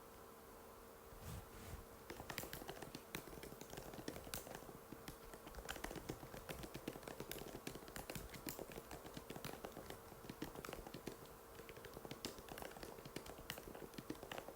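Typing on an Apple MacBook butterfly keyboard: quick, irregular key clicks that start about a second in and keep going, over a faint steady hum.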